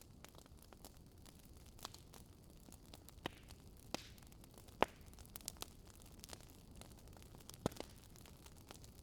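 Wood fire crackling in a fireplace: sharp, irregular pops from the burning logs, the loudest about halfway through, over a low steady hiss of the flames.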